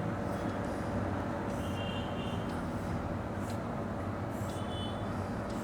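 Steady low mechanical rumble, with a few brief high-pitched tones now and then.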